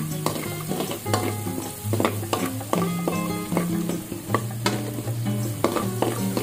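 Garlic and onion sizzling in hot oil in a wok, with a metal spatula scraping and clinking against the pan as it stirs them. Background music with a bass line plays underneath.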